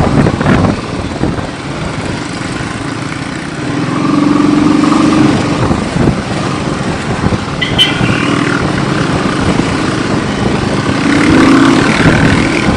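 Motorcycle riding along a road with engine and wind-and-road noise, the engine note swelling twice, near the middle and again near the end. A brief sharp sound comes a little past halfway.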